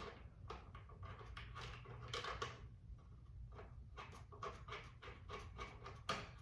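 Faint, irregular clicks and light scrapes of small metal parts and bolts being handled and fitted by hand.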